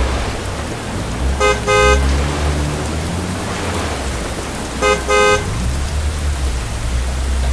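A vehicle horn gives two quick double toots, about three and a half seconds apart, over a steady deep engine rumble.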